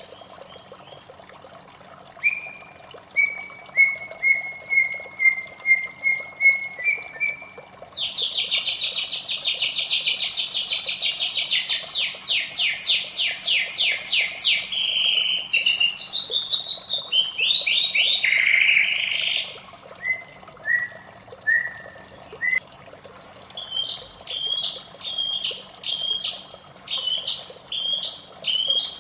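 White-rumped shama (murai batu) singing: a run of short, slightly falling whistled notes, then a long rapid trill with varied phrases in the middle, a few more whistles, and a string of repeated higher notes near the end.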